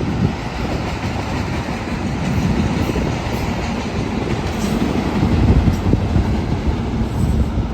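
Union Pacific train rolling past on the rails: a steady low rumble with the clatter of its wheels.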